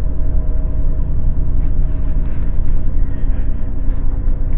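Steady low rumble of a moving intercity train heard from inside the carriage, with a faint steady hum over it.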